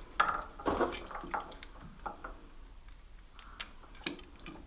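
Short clicks and light scrapes, unevenly spaced, of a Stanley utility knife being worked on a motorbike wiring loom.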